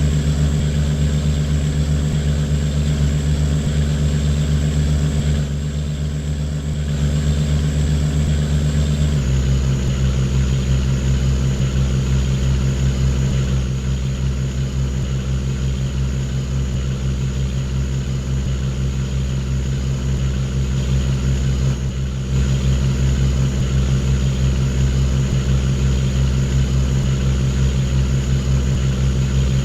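Boat engine running steadily with a low, even throb; about nine seconds in the engine speed drops slightly and it runs on at the lower pitch.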